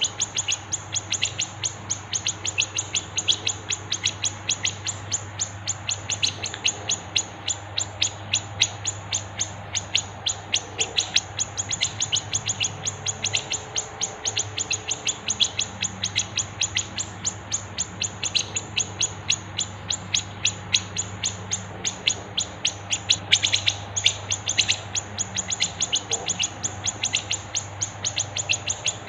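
Dense, rapid chirping of small songbirds from a masteran bird-song training mix of cucak jenggot (grey-cheeked bulbul), fighting tree sparrows and siri-siri: sharp high chirps repeating several times a second without a break. A faint steady low hum runs underneath.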